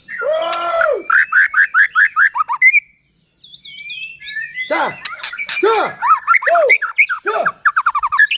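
White-rumped shama (murai batu) singing loudly: a quick run of repeated slurred notes, a short pause about three seconds in, then a varied phrase of rising and falling notes.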